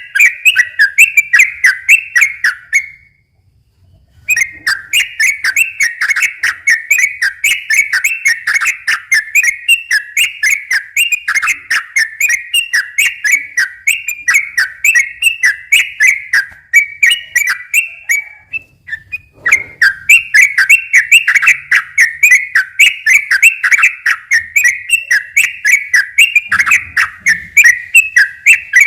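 Sooty-headed bulbul singing a long run of rapid, repeated whistled notes, broken by two brief pauses.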